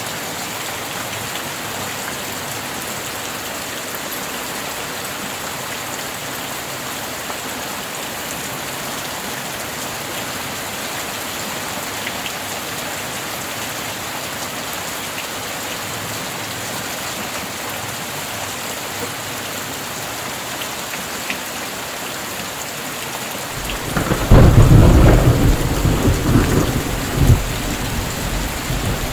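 Steady rain falling. Near the end a sudden loud thunderclap breaks in and rumbles on, rolling through a few further peaks.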